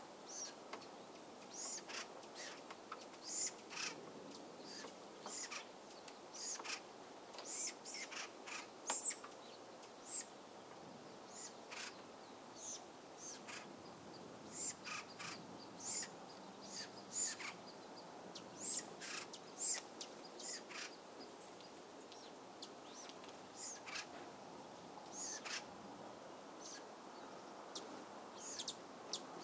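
Small birds chirping: many short, high calls, some in quick runs, over a faint steady background hiss.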